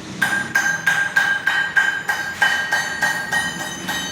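Steady hammering on metal: about three sharp, ringing blows a second.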